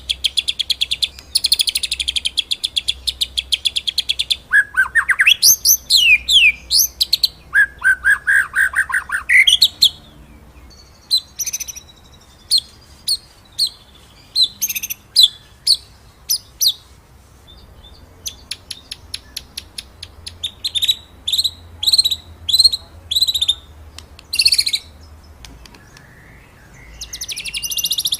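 White-rumped shama (murai batu) singing: a fast rolling trill at first, then whistled notes gliding up and down and a string of sharp, separate high notes, with the rolling trill returning near the end.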